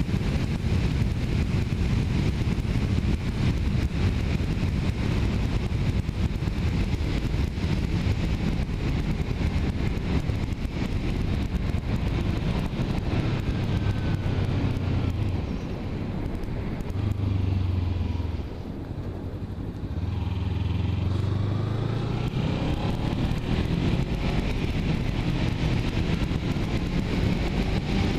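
Kawasaki Ninja 300 parallel-twin engine running while the motorcycle is ridden, mixed with wind rumble on the microphone. The engine note holds steady for stretches and dips briefly about two-thirds of the way through.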